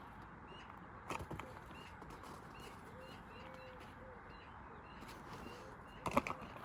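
Faint bird chirps repeating about twice a second, with a low cooing call midway. A few sharp knocks come about a second in and again near the end.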